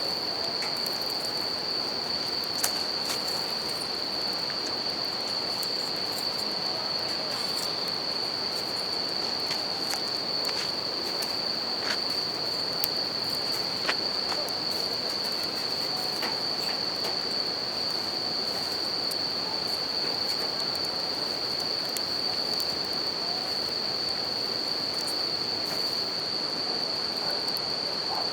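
Bell crickets (suzumushi) singing in one unbroken high trill, over the even rush of a river, with a few sharp crackles and pops from a wood campfire.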